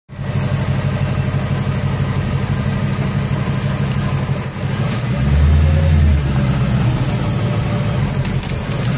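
Whipple-supercharged 2015 Mustang's V8 idling with a choppy low note, with one brief louder, deeper swell about five seconds in.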